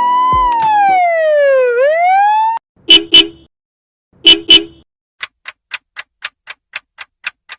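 Ambulance siren wailing, its pitch sweeping slowly up and down, then cutting off suddenly about two and a half seconds in. Two pairs of short sharp knocks follow, then an even ticking at about four ticks a second.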